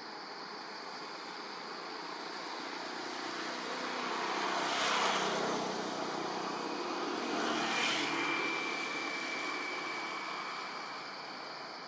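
Engine noise of something passing by swells twice, about five seconds in and again near eight seconds, then fades, leaving a faint steady whine.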